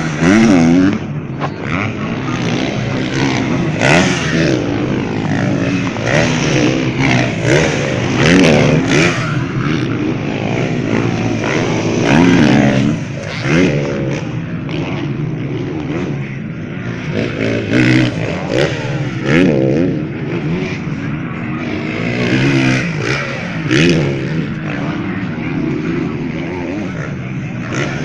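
Several motocross bikes' engines revving up and down, with their pitches rising and falling over one another.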